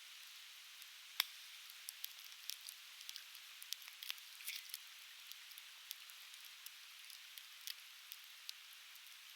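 Conifer firewood crackling as it burns, with irregular sharp pops, the loudest about a second in, over the steady hiss of a flowing river.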